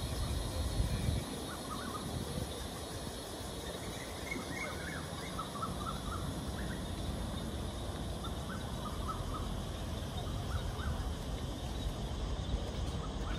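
Short bird chirps scattered over a steady low rumble of outdoor background noise.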